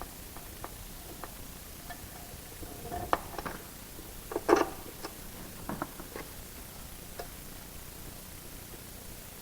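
Scattered light clicks and taps of small metal parts and tools being handled while a control cable is fitted to an engine's oil injection pump lever, the loudest knock about four and a half seconds in.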